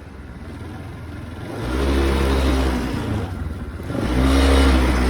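A motor vehicle engine revving hard in two surges, each about two seconds long, with a rushing hiss over it.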